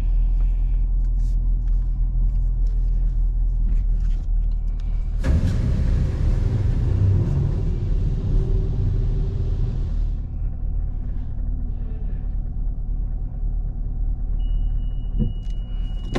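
A 2021 Camaro 2SS's 6.2-litre V8 idling steadily with a low rumble. About five seconds in, a loud hiss starts and runs for about five seconds. A steady high beep starts near the end.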